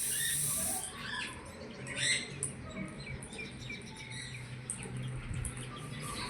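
A parrot making repeated short chirps and squeaks, the loudest about two seconds in. A loud high hiss carries over from before and cuts off just under a second in.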